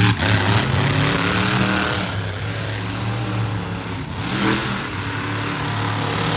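Monster truck engine running loudly at a mostly steady pitch.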